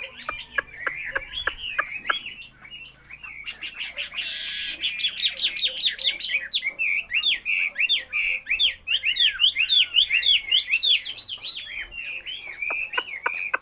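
Caged songbird singing a long, rapid run of quick sweeping whistled notes, densest and loudest in the middle, with sharp clicks near the start and a short hiss about four seconds in.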